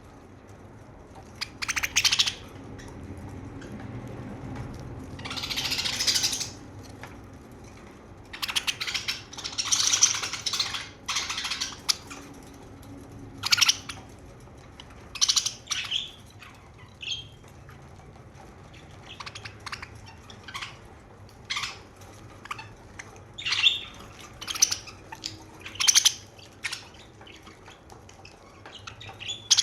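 Pet budgerigars chirping and chattering in irregular bursts, some short and sharp, some lasting a second or more, with brief gaps between.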